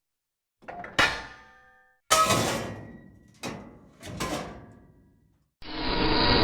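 A series of creaks, about five separate ones, each dying away over up to a second. About five and a half seconds in, a steady door creak begins.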